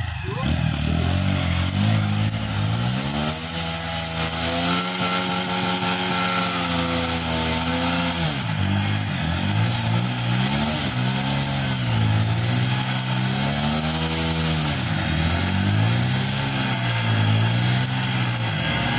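Two single-cylinder motorcycle engines, a TVS Apache RTR 160 4V and a Hero Achiever 150, revving hard under load as the bikes pull against each other on a rope. The engine note climbs a few seconds in, holds high, drops about eight seconds in, then rises and falls again several times.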